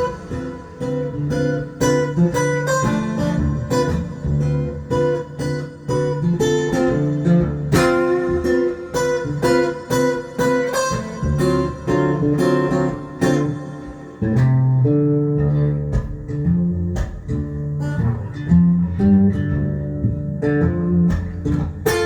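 Stanford acoustic guitar playing a blues instrumental: plucked melody notes over a run of low bass notes.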